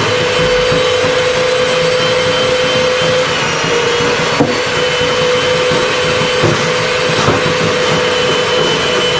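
An electric machine running steadily with a constant hum and a few faint clicks.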